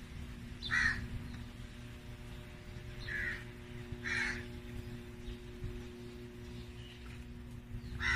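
A bird calling outdoors: four short calls, about a second in, twice around three to four seconds, and again at the very end, over a steady low hum.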